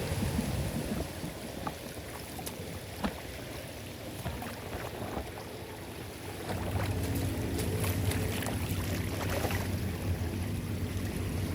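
Floodwater draining away: a steady rush of water with scattered small clicks. A low rumble grows louder about six and a half seconds in.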